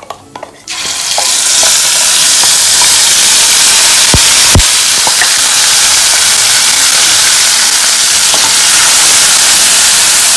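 Wet ground tomato-cashew paste hitting hot ghee and oil in a steel kadhai: a loud sizzle that starts suddenly about a second in and keeps up steadily while the paste is stirred. Two short knocks sound about four seconds in.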